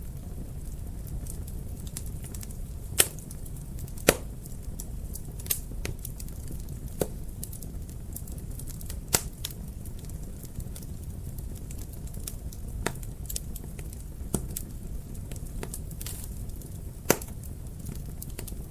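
Wood fire burning in a fireplace: a steady low rumble of flames with irregular sharp crackles and pops, the loudest two about three and four seconds in.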